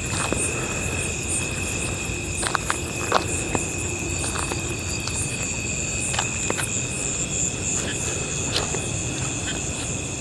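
Insect chorus: a steady, high-pitched trilling at two pitches, with scattered light clicks and taps.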